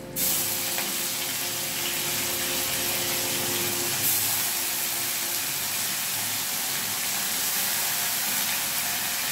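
Onion-garlic paste spooned into hot oil in a wok, sizzling steadily. The sizzle starts suddenly as the first spoonful goes in, with a brief flare about four seconds in as another spoonful lands.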